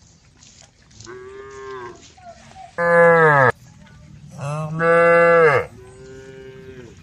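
A cow mooing in four calls: two loud, pitched moos about three and five seconds in, each under a second long, with a softer, lower moo before and after them.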